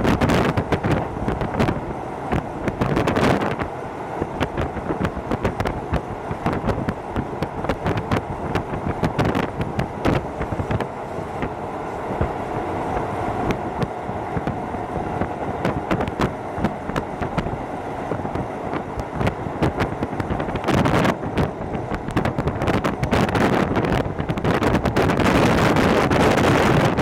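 Hokuso Railway 7260 series commuter train running at speed, heard from inside the car: steady running noise with a constant rapid clatter of wheels over the track. The noise swells about three quarters of the way through and again near the end.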